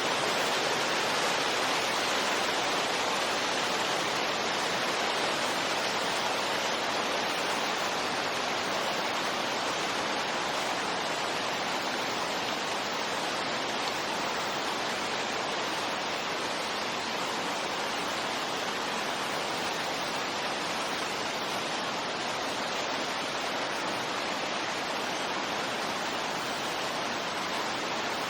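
Steady rushing wind noise of a white-noise sleep track, even and unbroken, with no gusts or swells.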